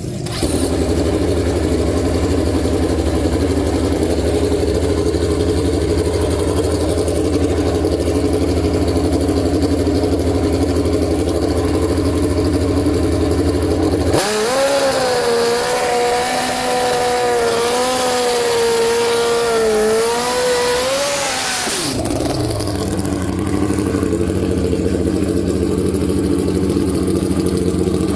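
Drag-racing motorcycle engines running steadily. About halfway through, an engine is revved and held high for roughly eight seconds, its pitch wavering, then drops away and the steady running returns.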